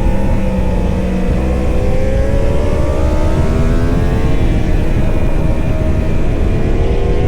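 Racing superbike engine at high revs, its pitch climbing slowly as it accelerates, over a heavy low rumble.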